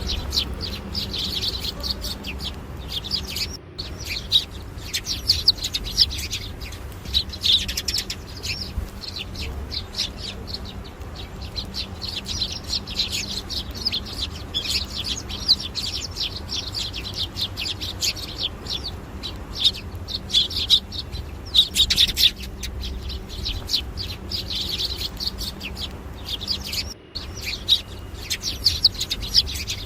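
Small birds chirping and twittering, a dense run of quick high-pitched calls with barely a pause, over a low steady rumble. The sound cuts out briefly twice, about four seconds in and near the end.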